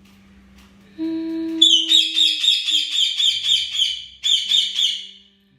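Baby parrot giving a fast run of short, shrill repeated calls, about five a second, with one brief break, which the owner takes as a sign it is hungry. A person's brief hum comes just before the calls start.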